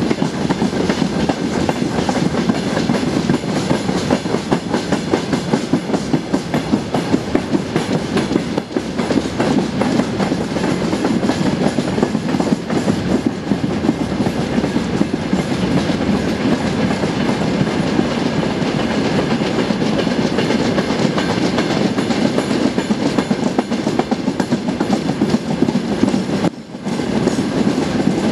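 Long freight train of open wagons and a tank car rolling past, wheels clattering steadily over the rail joints, with a brief drop near the end.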